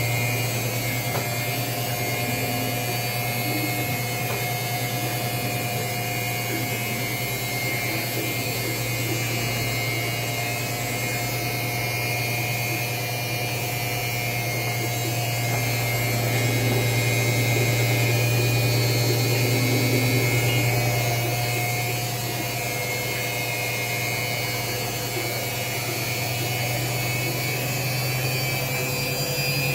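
Washing machine running: its motor gives a steady, unbroken hum.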